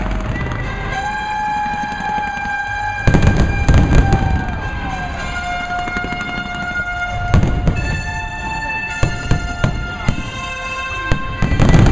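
Fireworks bursting in clusters of sharp bangs and crackles, about three seconds in, again around seven and nine seconds, and near the end. Underneath, the show's music plays with long held notes that change pitch every few seconds.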